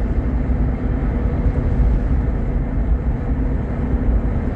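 Steady road and engine noise of a moving car heard from inside the cabin: an even low rumble with a faint steady hum.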